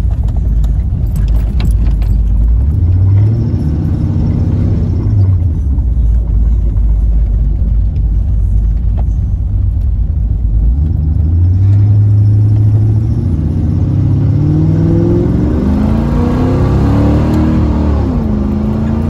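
Cammed small-block V8 of a 1986 Camaro IROC-Z heard from inside the cabin while driving. The engine revs up about three seconds in and settles back, then climbs in pitch from about eleven seconds on, with a short dip near the end.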